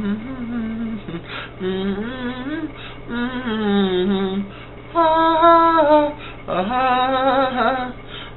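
A voice singing a wordless melody in several short phrases of held, wavering notes, with brief pauses between them.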